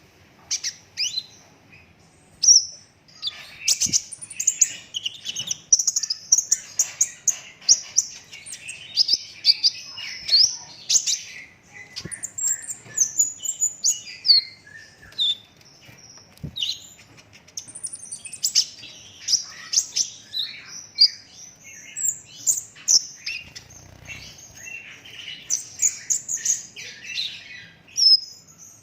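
A kolibri ninja sunbird singing a rapid, near-unbroken run of high-pitched chirps, twitters and short trills.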